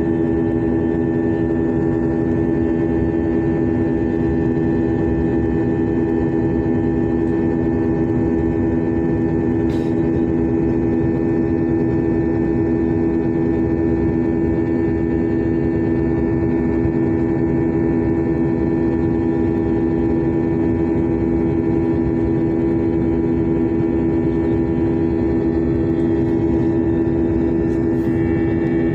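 Airliner jet engines heard from inside the passenger cabin: a steady, unbroken drone with a strong low hum and a deep rumble beneath it.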